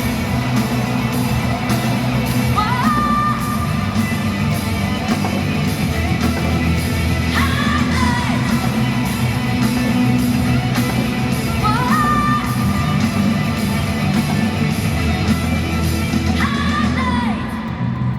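Live rock band playing at full volume, drums and bass under a singer whose held phrases scoop up and trail off about every four to five seconds, with yells from the crowd. The music thins out a little near the end.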